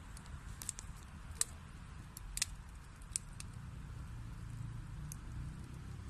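Wood fire burning in a fireplace: a steady low rumble of flames with sharp crackles and pops scattered through, the loudest about one and a half and two and a half seconds in.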